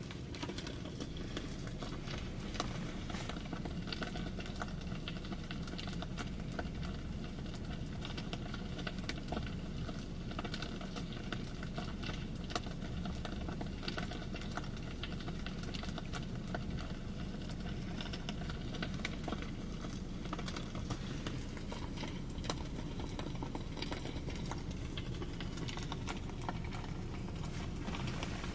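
Crackling log-fire sound effect from a Tesla Model S's Romance Mode, played through the car's speakers: a steady hiss scattered with irregular small pops and crackles.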